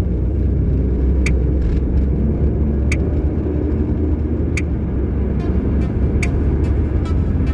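Car driving, heard from inside the cabin: steady low road and engine rumble. A short sharp click sounds at an even beat, about once every second and a half.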